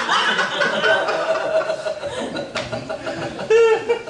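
Audience laughing and chuckling, with a sharp click about two and a half seconds in and a louder swell of laughter near the end.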